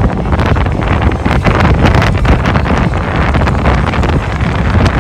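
Wind buffeting the microphone: a loud, uneven gusting rumble with irregular thumps.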